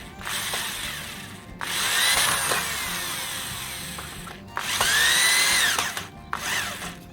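Electric drill run in four bursts, its motor whine rising in pitch and falling back each time the trigger is squeezed and released. It is driving screws into a wooden fence gate.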